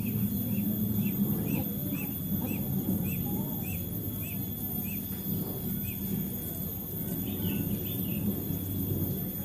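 A bird calling a steady series of short, high chirps, about two a second, that stop after about six seconds, over a low background rumble.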